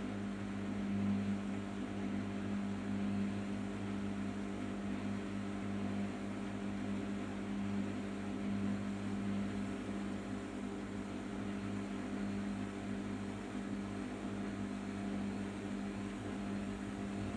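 Arçelik 5083 washing machine running through its final rinse and spin, with a steady low motor hum that does not change.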